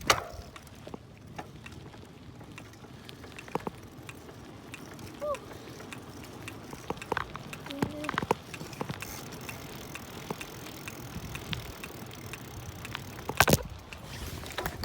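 Bicycle being ridden along a street: steady tyre and road noise with scattered small rattles and knocks, and a louder knock near the end.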